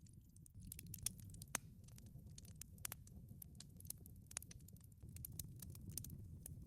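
Wood fire burning in a wood-fired pizza oven: irregular sharp crackles and pops over a low, steady rumble of the flames.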